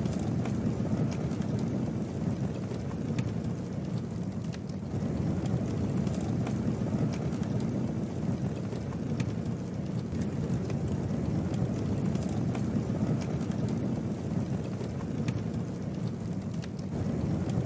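Campfire burning: a steady low rumble of flames with scattered sharp crackles.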